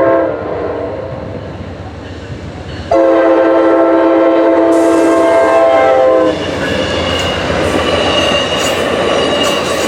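Amtrak passenger train's chime horn: a blast ends just after the start, then a long held blast about three seconds in lasts about three seconds. After it the train runs past, its wheels rumbling and clattering on the rails, with a thin high wheel squeal.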